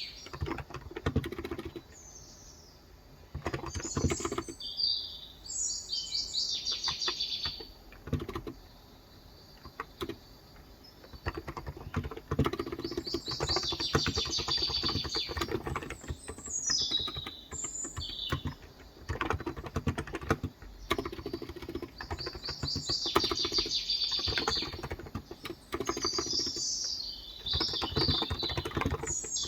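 Typing on a Cox Endeavour electrostatic-capacitive (contactless) tenkeyless keyboard with light 35 g switches, in runs of quick keystrokes broken by short pauses. Birds chirp and twitter in the background.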